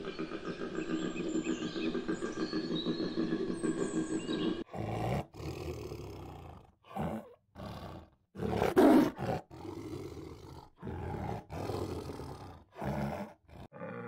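Koala bellowing, a low, rapidly pulsing rasp, for roughly the first third. Then a tiger roars and snarls in a series of short, separate bursts with gaps between them, the loudest about two-thirds of the way in.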